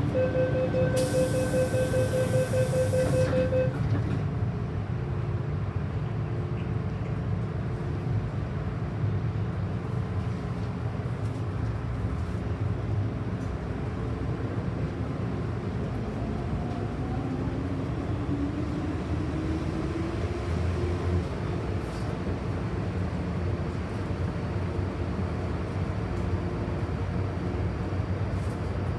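MTR Tsuen Wan Line M-Train: rapid door-closing warning beeps with a hiss for about three seconds near the start, then the train running with a steady low rumble. About halfway through, a rising motor whine sounds as the train accelerates away from the station.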